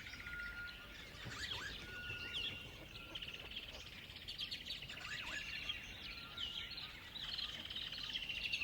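Several small songbirds singing together: fast chirps and rapid trills, with a few brief clear whistled notes, over a faint steady hiss.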